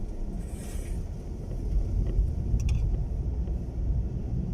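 Inside a moving car: steady deep road and engine rumble with wind buffeting the body in strong wind. A brief hiss comes about half a second in, and a few light clicks a little past the middle.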